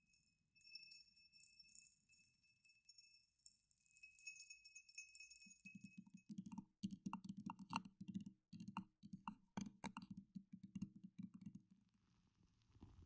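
Faint close-miked ASMR trigger sounds: a thin, steady high ringing tone like a struck chime for about six seconds, then a quick run of clicks and taps over soft low thuds.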